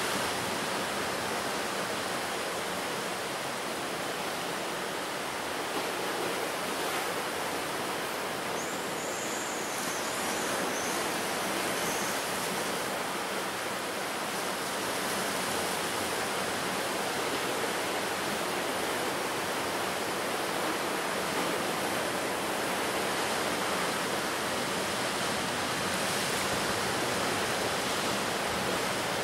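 Ocean surf breaking on the shore, a steady rushing wash of water.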